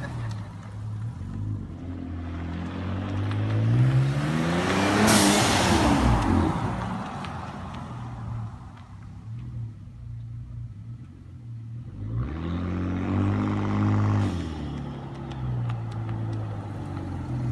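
2015 Ford Taurus SHO's twin-turbo 3.5-litre EcoBoost V6, exhaust run without a muffler, revved up twice, the second time less hard, and settling back between revs. At the top of each rev there is a short, sharp hiss, the blow-off valve venting to atmosphere.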